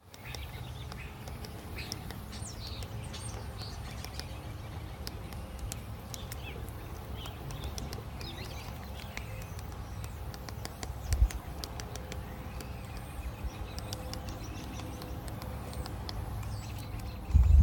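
Bird chirps, short and scattered, with faint clicks over a steady low outdoor rumble. A single low thump comes about eleven seconds in.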